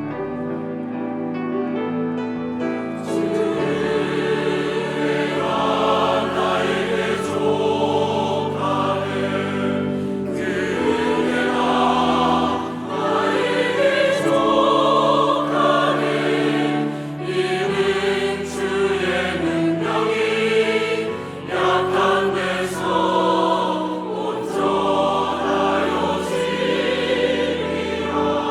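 Church choir singing an anthem with instrumental accompaniment. Sustained chords open it, and about three seconds in the sound broadens, with regular percussion hits through the rest.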